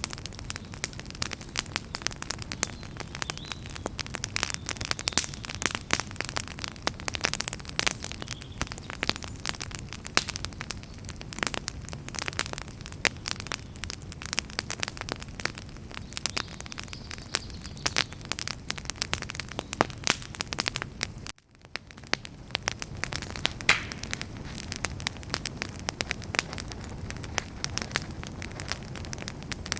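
Burning firewood crackling and popping steadily, many sharp irregular pops over a low steady hiss. The sound cuts out for a split second about two-thirds of the way through, then resumes.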